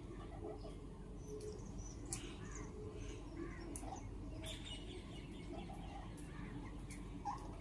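Parrots chirping and squawking in short, scattered calls, mixed with a few sharp clicks, over a steady low background noise.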